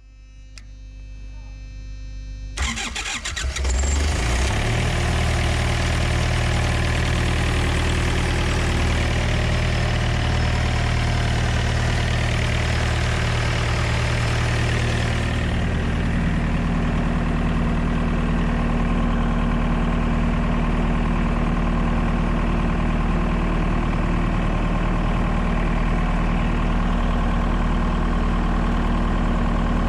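Refrigeration unit engine on a refrigerated semitrailer starting about two and a half seconds in, then running steadily. Partway through, its sound changes and the higher part drops away.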